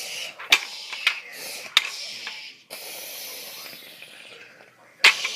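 Three sharp knocks about half a second apart, then a steady hiss for a couple of seconds, then one more loud knock near the end.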